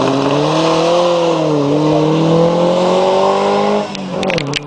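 Skoda 130 RS rally car's four-cylinder engine pulling away under throttle, its pitch rising, dipping and rising again before it fades out about four seconds in. A few sharp clicks near the end.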